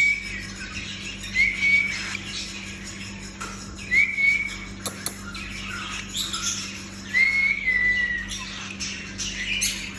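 Young albino cockatiel calling: four clear whistled calls, each a short rise that levels off, a few seconds apart, the last one longer and sliding slightly down. Softer chirps and scratchy high sounds come in between.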